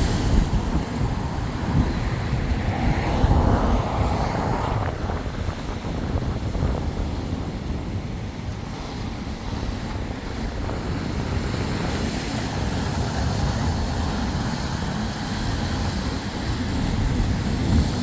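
Hurricane-force wind buffeting the microphone in a steady low rumble, over rough sea with high waves breaking on the shore.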